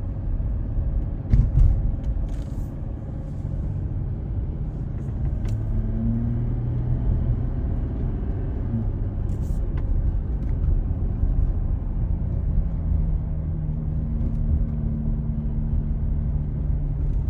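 Car being driven, heard inside the cabin: a steady low rumble of engine and road noise, with a single thump about a second and a half in.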